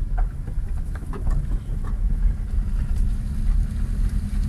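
Car driving over a rough, broken road: a steady low engine and road rumble, with a few faint knocks in the first couple of seconds.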